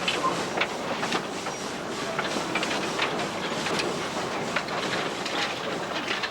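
Train running along the track, a steady rumble with irregular clicks and clanks from the wheels and wagons.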